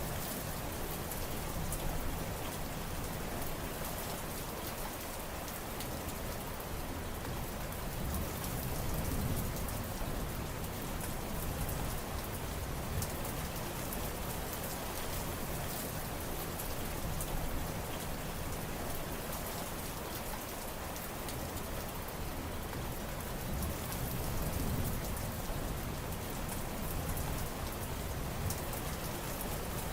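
Steady heavy rainfall: a dense hiss of drops striking surfaces, with many small ticks of individual drops and a slow low rumble that swells and fades a few times.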